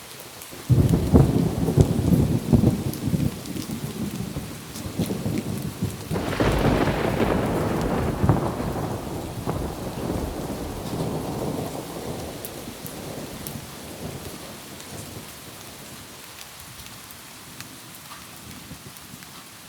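A thunderclap over steady rain: it breaks in suddenly just before a second in with a crackling low rumble, swells into a second, louder peal at about six seconds, then rolls away and fades back under the rain.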